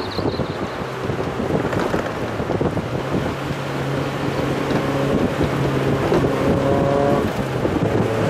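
Mazda Roadster's engine running on a downhill drive, its steady tone showing through heavy wind rumble and buffeting on the microphone. The engine note is clearer in the second half.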